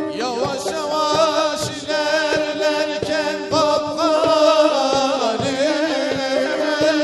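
Turkish fasıl ensemble music: a melody with a wide, wavering vibrato enters at the start, over sustained lower notes and a running pattern of drum strokes.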